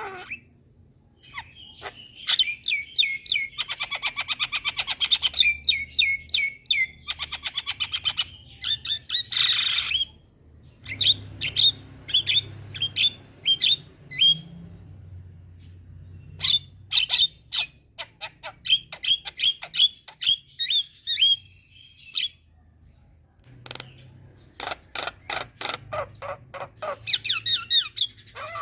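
Mynas chattering and squawking in fast runs of sharp repeated notes, with a few short breaks between runs.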